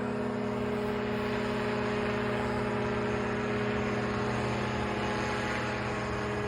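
Small aircraft engine running steadily, an even drone with a low hum and a few steady tones.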